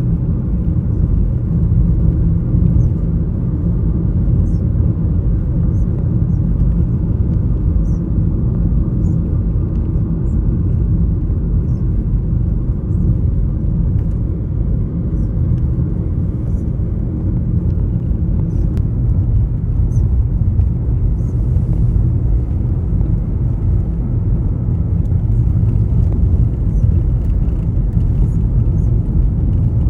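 Steady low rumble with no clear pitch, with faint short high chirps dotted through it.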